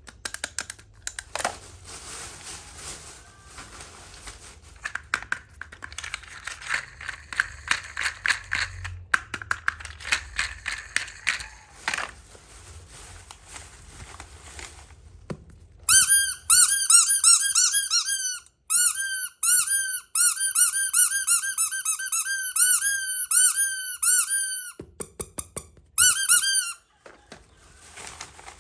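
Light clicks from small plastic toy pieces being handled, then a long run of loud, high squeaks, several a second, each rising and falling in pitch, broken by a few short pauses.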